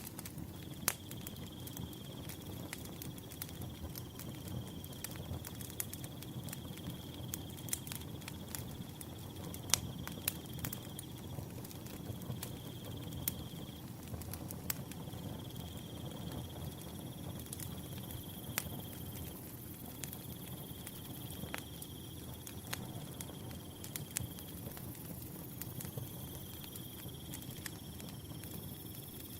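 Wood fire crackling, with sharp pops scattered over a low steady rumble. A cricket chirps in long high trills that break off briefly every few seconds.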